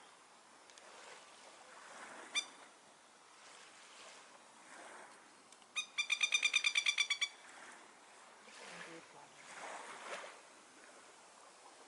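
A plover gives one sharp call, then a few seconds later a fast rattling alarm call of about a dozen harsh notes lasting just over a second. A soft rushing background swells and fades between the calls.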